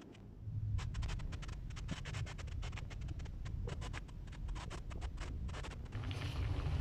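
Cooking fire under a covered pot crackling in irregular sharp clicks. About six seconds in, a steady rushing noise of the flame sets in.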